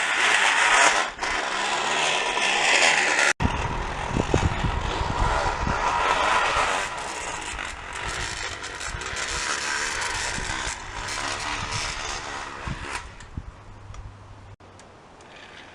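A can held against a bicycle's rear-wheel spokes, rattling fast as the bike is ridden so it buzzes like a dirt bike. After a sudden break about three seconds in, a low rumble joins, and the rattle fades toward the end.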